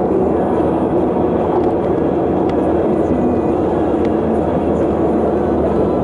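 Steady noise of a vehicle on the move: engine, tyres and wind.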